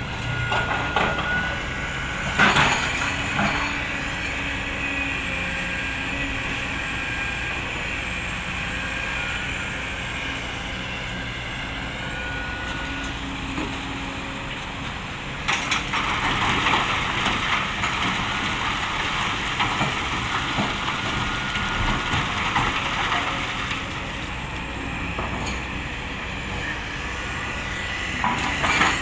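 Kobelco SK200 hydraulic excavator running steadily while it works, with a couple of sharp knocks about two and a half seconds in. A louder rushing, scraping noise starts suddenly about halfway through and lasts some eight seconds.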